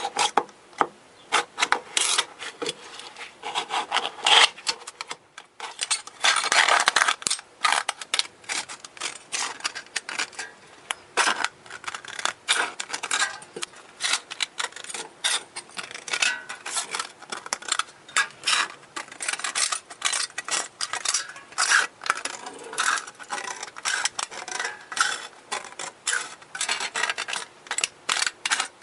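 Quick, repeated scraping strokes of a hand tool working a part, about three to four a second, with a denser, longer stroke about six seconds in.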